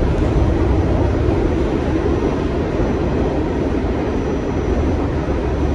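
New York City subway train running at speed: a steady, loud rumble and roar of steel wheels on the rails.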